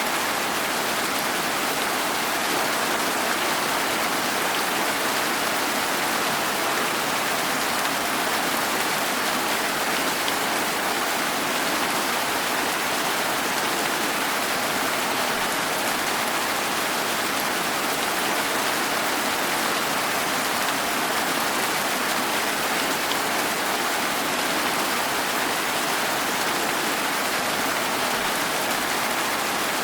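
Steady rain falling, an even hiss of rain without thunder or separate drops standing out.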